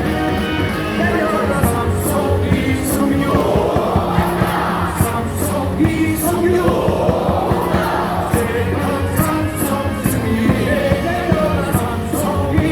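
Cheer-song music over a ballpark's loudspeakers with a large crowd singing along, with a steady rhythmic beat.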